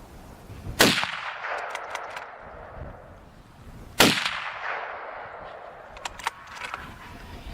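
Two gunshots about three seconds apart, each followed by a long echoing tail, with a few fainter sharp cracks after each shot.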